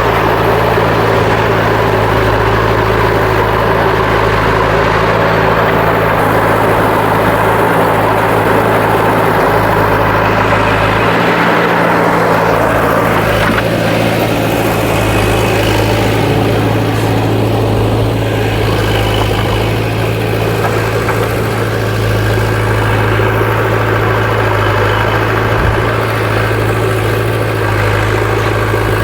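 Heavy diesel engine running steadily at a low, even pitch, with its tone shifting briefly about eleven to fourteen seconds in.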